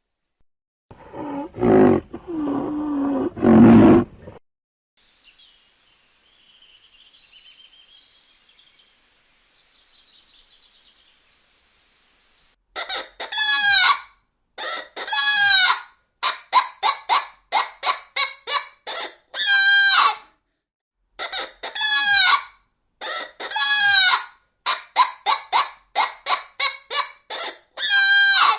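Chickens: a rooster crowing several times among many short clucking calls, which take up the second half. It is preceded by faint high bird chirping and, at the start, a few seconds of a loud low animal sound.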